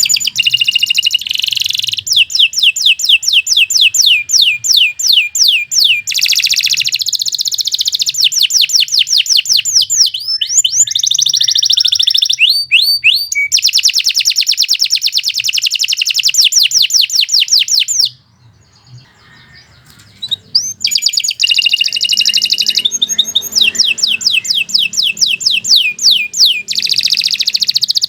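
Domestic canary singing a long song of fast repeated trills and rolls, high-pitched and continuous, with a pause of about two seconds past the middle before it resumes.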